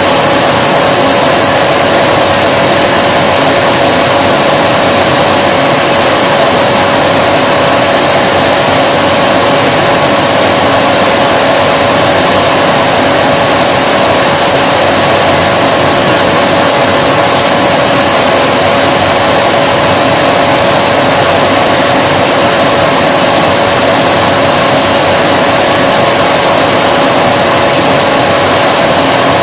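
Vacuum cleaner running steadily: a constant whine held at one pitch over a broad, even noise of air, with no change in speed or level.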